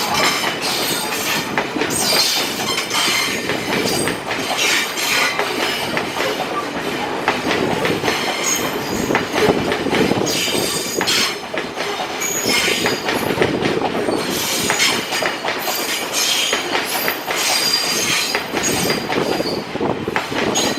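Train running past close by: steady wheel and rail noise with rapid irregular clacks over the rail joints and intermittent high wheel squeal.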